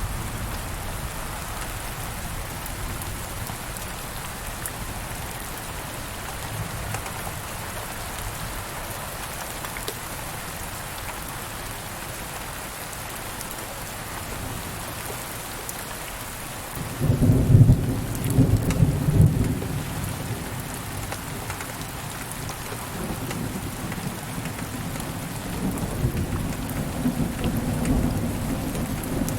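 Steady rain falling, with a sudden loud roll of thunder a little past the middle that rumbles for a few seconds, then a softer, longer rumble of thunder near the end.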